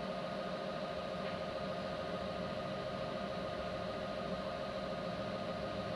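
Vertical milling machine running steadily in low gear, a constant hum with a clear steady tone from its motor and gearing.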